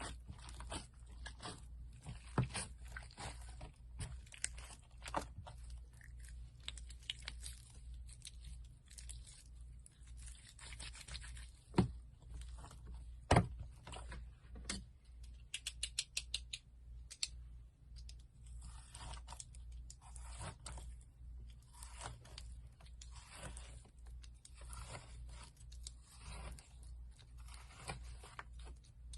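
Slime being handled and squeezed by hand: a steady stream of sticky crackles, squishes and small pops, with a quick run of tiny pops about halfway through and a low hum underneath.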